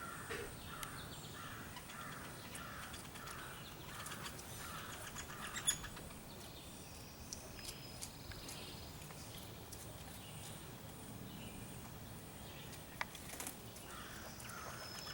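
Young woodpecker begging for food with a rapid series of repeated calls, about two a second, that stop about five seconds in and start again near the end.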